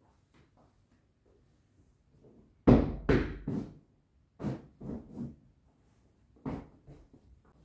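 Irregular knocks and thuds of household objects being handled and set down, a cluster of about six in quick succession a few seconds in, the first the loudest, and one more near the end.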